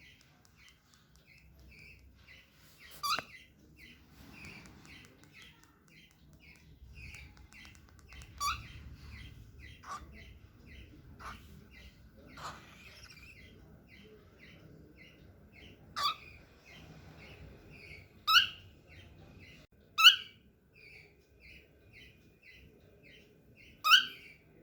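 Young cockatiel chirping in a steady series of short soft chirps, about three a second, broken by about half a dozen loud, sharp calls.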